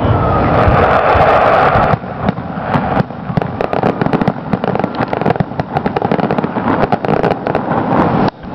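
Aerial fireworks shells bursting, a dense run of bangs and crackles. A thick, continuous crackle fills the first two seconds, and the sound dips briefly near the end.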